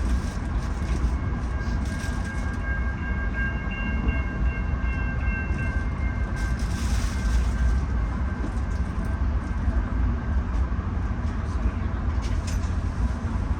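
Steady low rumble of a Bombardier LRC passenger coach rolling along the track, heard from aboard the train. A thin, high, steady tone sounds from about two seconds in until about eight seconds in.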